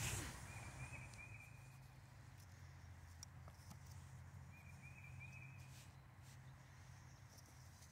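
Near silence with a steady low rumble, and a faint, short trilled bird call heard twice, once near the start and again about halfway through.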